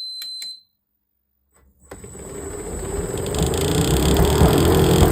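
Hotpoint SUTCD97B tumble dryer starting up with its cover off: a single high beep from the controls and a couple of clicks, then about two seconds in the motor starts and the drum spins up into a loud, rough mechanical running sound that builds up. The drive belt is damaged, the cause of the grinding noise.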